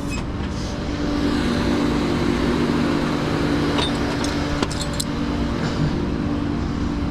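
A motor vehicle engine running steadily, with a few light clicks around the middle.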